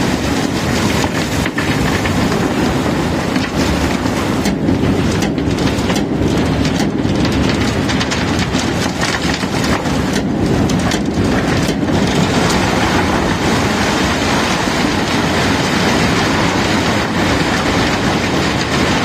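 Cobblestones being unloaded from a barge: a continuous loud clatter and rumble of stones rolling and knocking over running machinery, with a few sharper knocks.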